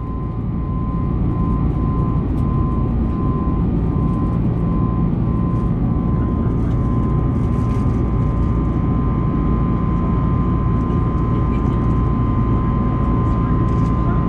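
Airbus A321neo cabin noise in flight: the steady rumble of the engines and airflow, with a steady high whine over it.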